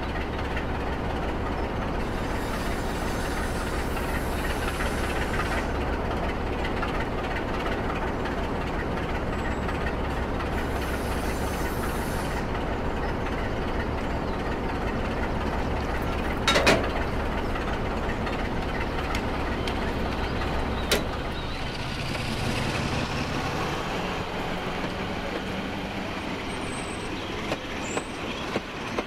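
Class 47 diesel locomotive engine sound running steadily, with a strong low hum, as the model loco buffers up to its coal wagons. A sharp clank comes about 16 seconds in and a smaller one about 21 seconds in, and the engine note changes a little after 22 seconds.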